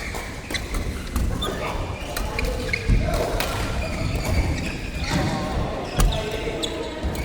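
Sharp, irregular hits and thuds of a racket-sport doubles rally in a large echoing hall, with players' voices in between.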